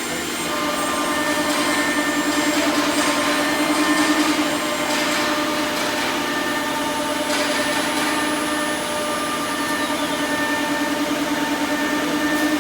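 CNC router's horizontal spindle running steadily with a held whine and a slight regular pulsing, machining lock holes in a door.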